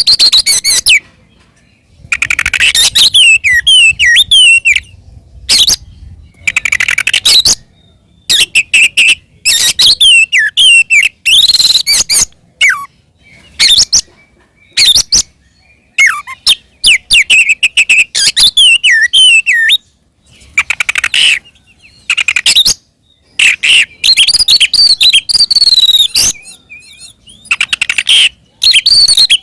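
Oriental magpie-robin (kacer) singing loudly in its full 'fighting' song: bursts of fast, varied whistles and chattering phrases, each lasting a second or two, with short pauses between them.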